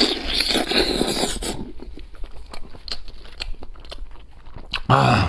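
A person biting into and chewing crispy charcoal-roasted chicken: a loud crunching bite for about the first second and a half, then softer, irregular chewing clicks. A short burst of voice comes near the end.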